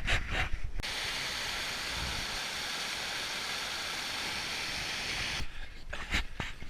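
A steady, even rushing hiss that cuts in suddenly about a second in and stops just as suddenly near the end. A few short clicks and knocks come before and after it.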